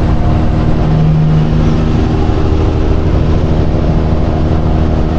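Semi truck's diesel engine running steadily under way, heard from inside the cab with road noise.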